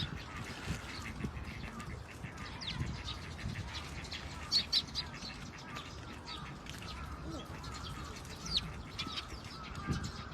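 Birds chirping in many short, sharp calls scattered at irregular intervals, over a low, uneven rumble.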